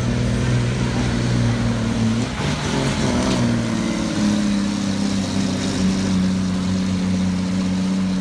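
Farm tractor engine running steadily, its pitch shifting slightly about three seconds in.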